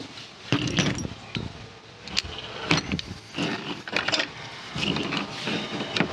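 Hand-handling noise at a workbench: scattered short clicks and light metallic rattling as crimped cable, lugs and tools are moved about.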